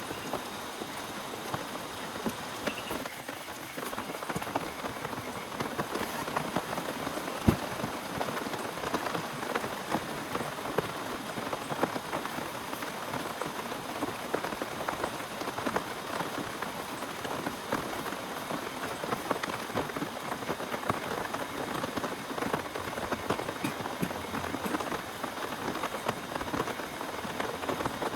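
Heavy rain pattering steadily on a surface, a dense patter of individual drop hits, with one louder drop about seven seconds in.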